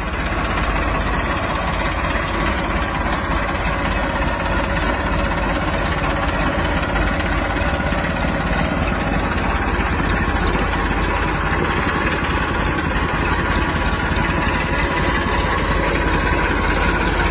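New Holland 3230 tractor's three-cylinder diesel engine running steadily at an even pitch and level.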